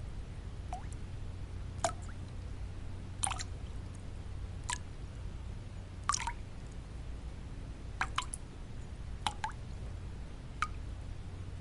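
Water drops falling one at a time, about nine in all at uneven gaps of roughly a second to a second and a half, each a short plink that drops in pitch, over a steady low white-noise rumble.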